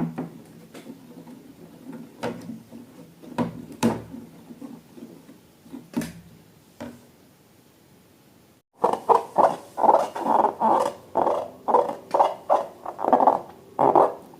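Scattered light clicks and taps of handling. Then, after an abrupt cut, a fast run of wet squelches from slime being squeezed and worked, several a second.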